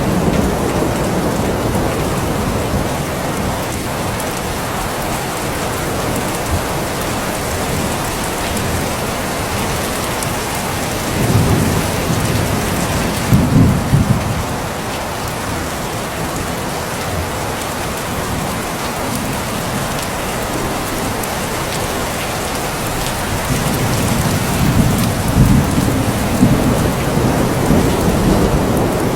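Steady rain falling, with thunder rumbling twice, about eleven seconds in and again near the end.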